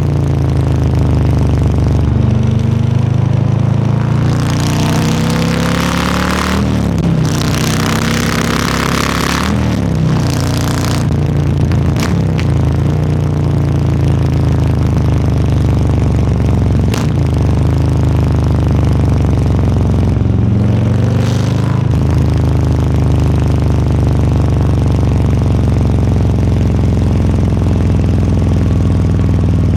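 Harley-Davidson Low Rider S's Milwaukee-Eight 117 V-twin running under way, its pitch rising and falling repeatedly as it accelerates and eases off. A loud rushing hiss comes in about four seconds in and drops away about ten seconds in.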